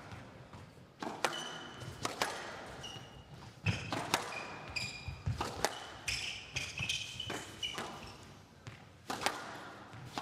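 Squash rally: the ball cracks sharply off rackets and walls at irregular intervals, with short high squeaks of court shoes on the wooden floor between the shots.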